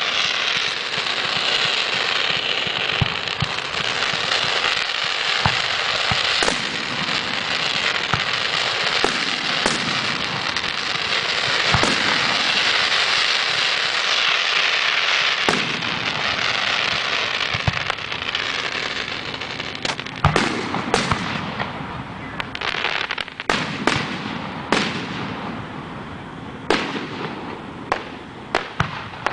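Fireworks display: a loud, steady hiss from a ground fountain of sparks and rising comets for most of the first eighteen seconds. After that comes a run of sharp cracks and bangs as aerial shells burst, several close together near the end.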